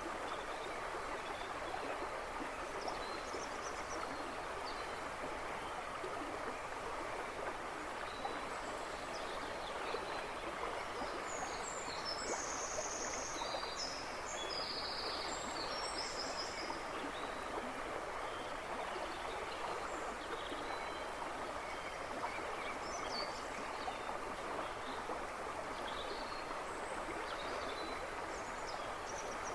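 A river rushing and splashing steadily over its bed. Birds chirp faintly in the background, with a brief flurry of high chirps around the middle.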